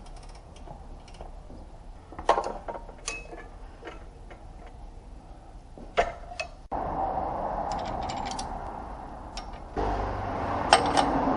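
Metal tools and parts clicking and clinking, with sharp knocks now and then. From a little past halfway a steady noise sets in, growing louder near the end.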